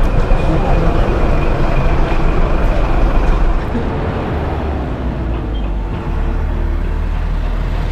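Road vehicle under way: steady engine rumble and road noise, a little quieter past the middle.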